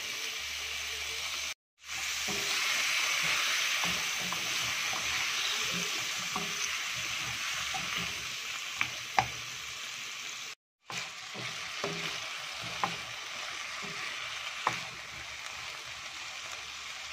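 Chicken feet sizzling in hot oil in a nonstick wok, stirred with a plastic spatula that clicks and scrapes against the pan. The sizzle is strongest just after they go in and eases a little. It cuts out briefly twice.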